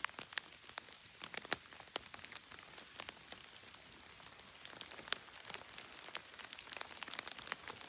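Steady rain with individual raindrops ticking sharply and irregularly on nearby surfaces.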